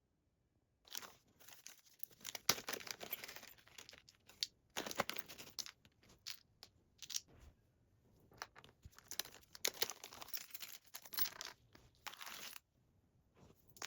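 Wrapping material, paper or plastic, being crinkled and torn by hand in a series of bursts that start about a second in and stop shortly before the end, followed by a single click.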